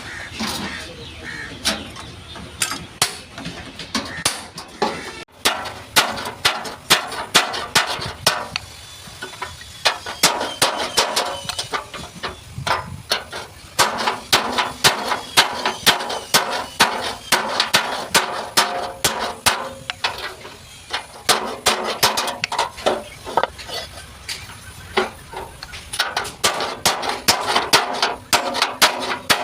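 Hammer blows on the sheet-steel panels of a Tata truck cabin during dent repair: rapid, irregular metallic strikes in runs of several a second, with short pauses between runs.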